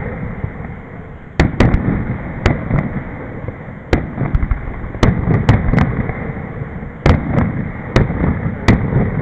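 Aerial firework shells bursting in quick succession: about a dozen sharp bangs, one or two a second at uneven spacing, with a rolling rumble echoing between them.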